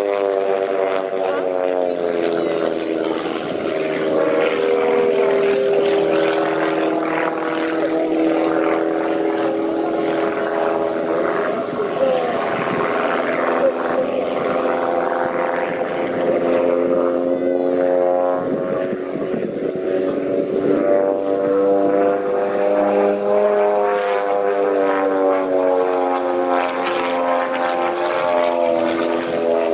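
Propeller aircraft engine droning loudly, its pitch sliding down and back up several times as the plane flies past.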